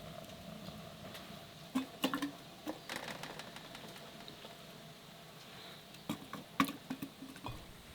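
Scattered light knocks and clicks of things being handled, in a cluster about two seconds in and another about six seconds in.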